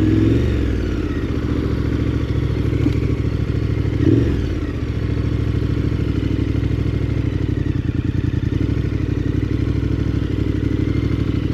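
KTM 1290 Super Adventure R's V-twin engine running at low revs. The pitch drops off just after the start, and a short throttle blip comes about four seconds in.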